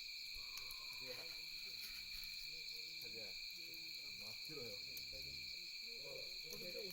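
Night insects, crickets or similar, chirring in a steady high-pitched chorus. Faint distant voices murmur underneath, with a few soft crackles from the campfire.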